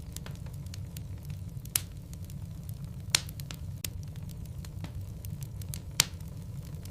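Logs burning in a fireplace: a steady low rumble of flame with scattered crackles and three louder pops.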